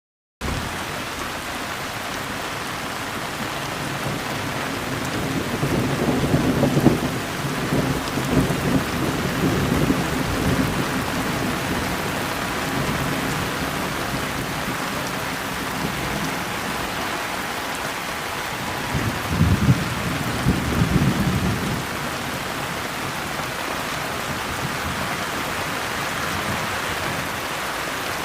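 Steady rain falling, starting suddenly about half a second in, with two low rolls of thunder rumbling through it, the first about a third of the way in and the second about two-thirds in.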